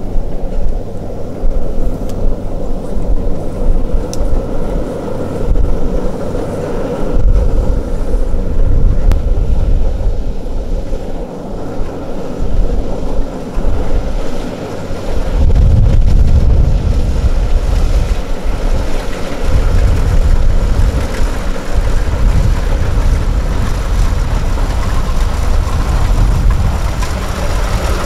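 A farm machine's engine running with a loud, low rumble that swells and eases, heavier from about halfway through.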